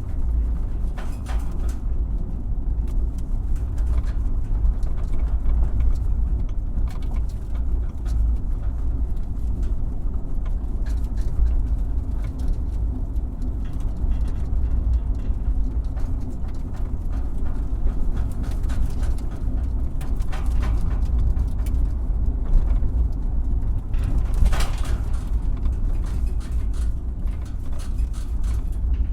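Truck driving over a rough road: a steady low rumble with frequent knocks and rattles as it hits bumps, one louder knock near the end.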